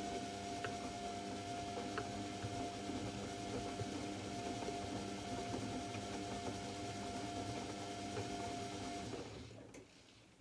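AEG Lavamat L74810 washing machine running with a steady motor whine and hum, which winds down and stops about nine seconds in.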